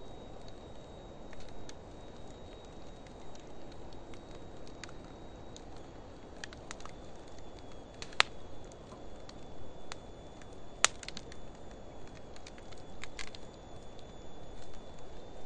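Wood fire of driftwood and dry hardwood burning in a metal fire pit, with scattered crackles and two sharp pops about 8 and 11 seconds in.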